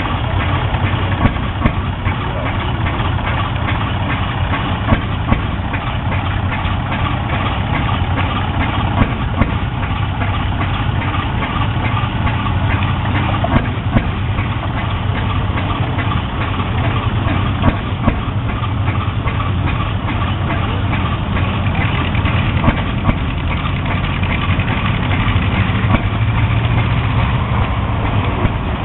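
An antique engine idling steadily: a continuous low hum with a fine, regular beat and a few brief louder knocks.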